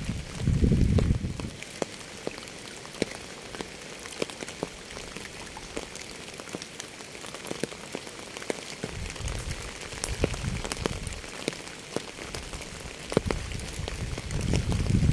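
Steady rain falling, with many separate drops tapping on a hard surface. Low rumbling swells rise up under it about a second in, again about two-thirds of the way through, and near the end.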